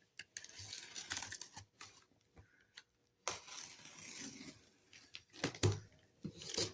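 A cardboard shipping box being opened: packing tape tearing and cardboard rustling, with a brief pause about two seconds in and a few sharp knocks near the end.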